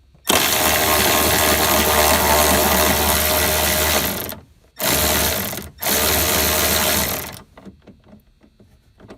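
Milwaukee M12 cordless ratchet running to back out a 10 mm bolt: one long run of about four seconds, then two short bursts.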